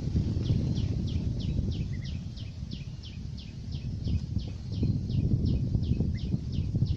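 A bird calling a steady series of short, high, falling notes, about three a second, over a constant low rumbling noise.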